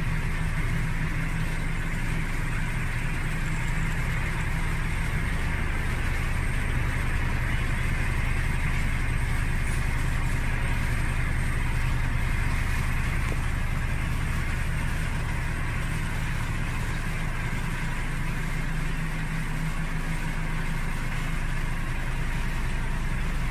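A vehicle engine idling steadily, with a low, even hum.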